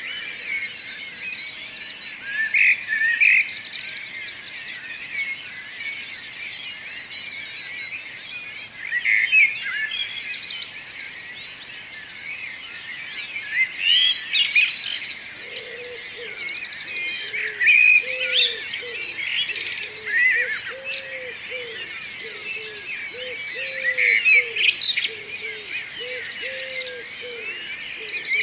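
Morning chorus of many songbirds singing and chirping at once. About halfway through, a low note repeated roughly twice a second joins in underneath.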